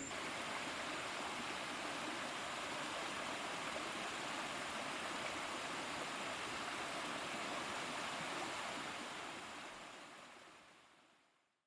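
Steady rush of running water, fading out over the last three seconds.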